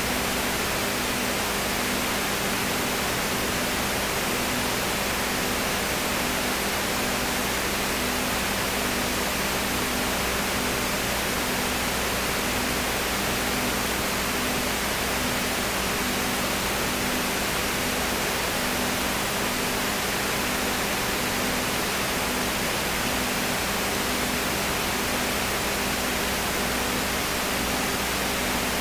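Steady, unchanging hiss with a faint low hum beneath it.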